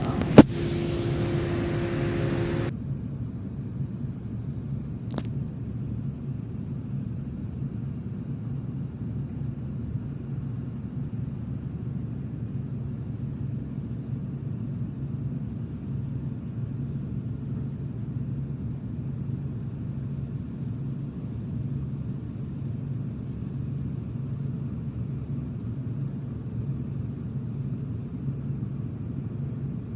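Steady low engine rumble with a constant hum, as from a vessel's engine running, preceded right at the start by a sharp click and about two seconds of hiss carrying two steady tones.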